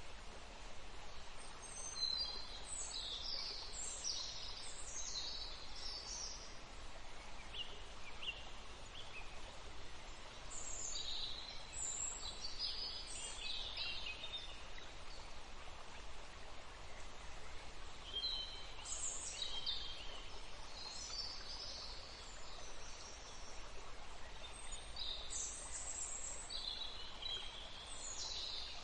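Songbird singing in four bouts of quick, high chirping phrases, spaced a few seconds apart, over a steady rush of flowing stream water.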